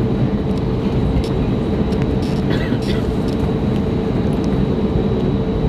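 Steady cabin noise of an Airbus A321neo: a loud, even rumble of engines and airflow with a constant hum running through it, and a few faint short clinks or voices about two to three seconds in.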